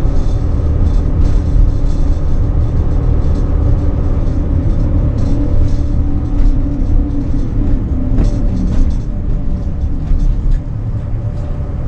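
Pickup truck running while driving slowly, heard from inside the cab: a steady low engine drone with road noise.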